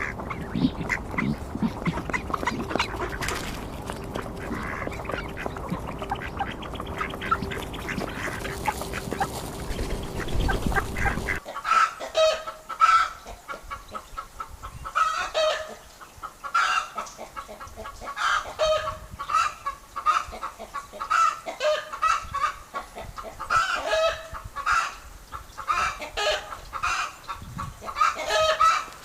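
Ducks or geese calling: first a busy, noisy stretch of poultry-yard sound over a steady hum, then, after a sudden change about a third of the way in, short calls repeated roughly once a second.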